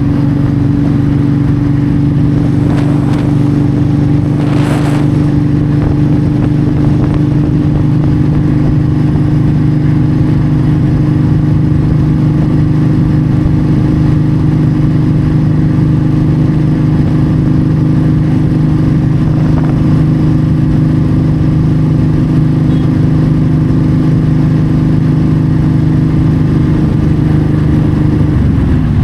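Yamaha V Star 1300's V-twin engine running steadily at highway cruising speed, with wind and road noise; the engine note changes just before the end.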